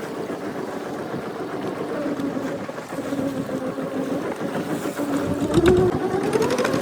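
Boat engine running over wind and water noise. From about five seconds in, it speeds up, rising in pitch and getting louder.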